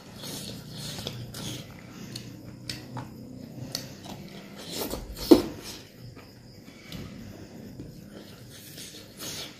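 Close-up eating sounds: a man chewing and smacking on mouthfuls of rice and dry beef eaten by hand, with his fingers working the rice on the plate. One sharp, much louder mouth sound comes about five seconds in.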